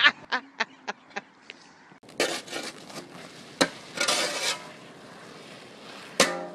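Laughter trailing off in short bursts, then a few scattered sharp knocks and two short bursts of rough noise, with one sharp knock near the end.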